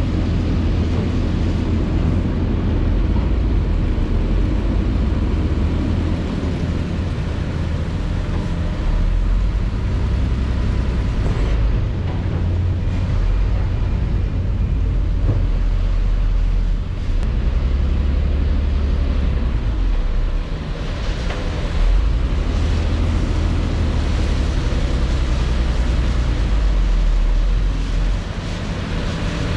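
Heavy construction equipment's diesel engine running with a deep, steady rumble that swells and eases every few seconds as the machine works.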